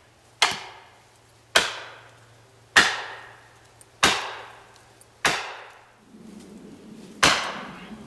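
Heavy blows struck into wood, six in all, about one every second and a quarter, each a sharp crack that rings and dies away, as in chopping or driving a felling wedge.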